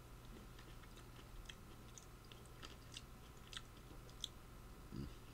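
Faint chewing of fresh blueberries and blackberries: soft, scattered mouth clicks and squelches, over a steady low hum.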